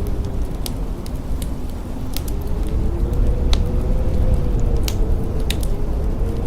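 Blizzard wind howling: a deep, steady rumble with a faint whistling tone that slowly rises and falls. A wood fire crackles over it with scattered sharp pops.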